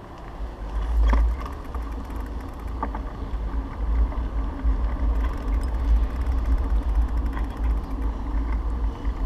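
Wind buffeting the microphone: a heavy, gusting low rumble that comes in suddenly, with faint clicks about a second and about three seconds in.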